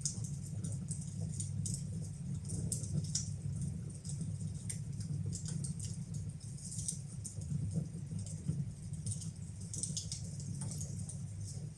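Fire burning in a fireplace, crackling with irregular sharp pops several times a second over a steady low rumble of the flames.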